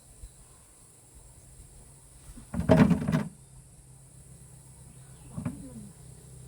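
Firewood dropped onto a pile: a loud clatter of sticks knocking together about two and a half seconds in, and a fainter knock a few seconds later.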